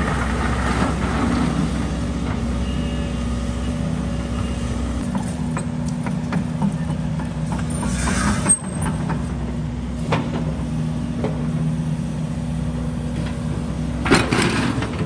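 Heavy diesel engine of construction machinery running steadily, with a short hiss of air about halfway through that cuts off sharply.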